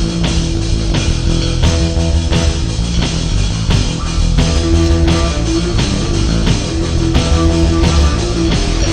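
Live rock band playing an instrumental passage: distorted electric guitar and bass over a driving drum kit.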